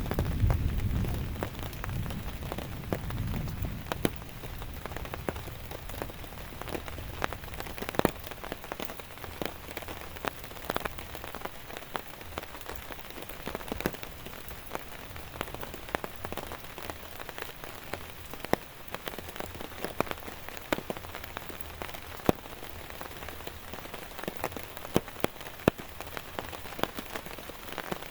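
Steady rain with many separate heavy drops tapping sharply and irregularly on a surface. A low rumble sits under the rain during the first few seconds, then fades.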